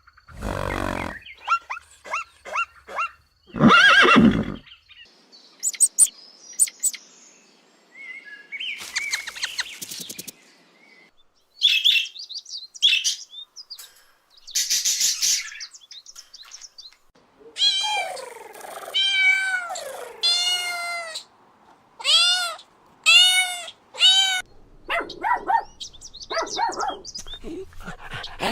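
Short calls from several different animals in turn, with short gaps between them; in the second half come a run of pitched calls that rise and fall in pitch, several in a row.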